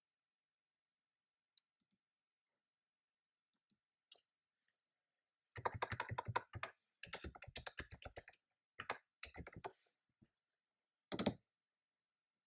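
Typing on a computer keyboard: a few scattered keystrokes, then several quick runs of typing in the middle, and one louder press near the end.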